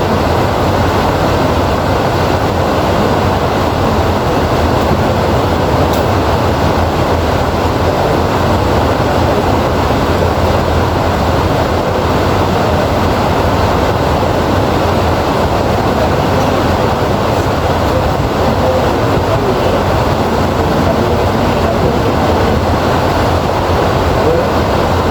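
Heavy rain falling steadily, a dense, even rushing sound weighted to the low and middle range, with no distinct thunder clap.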